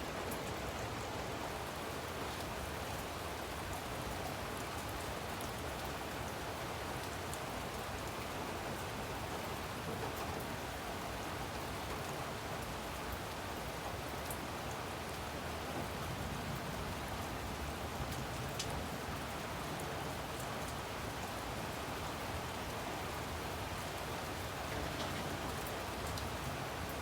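Heavy rain from a tropical storm, falling steadily as a constant hiss with scattered small ticks of drops.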